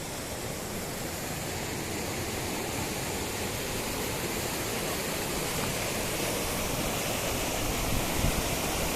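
A steady rushing noise that grows slowly louder.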